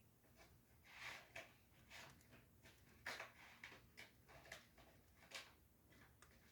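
Wood fire in a fireplace crackling: faint, irregular snaps and pops, several a second, the clearest about a second in, around three seconds in and past five seconds.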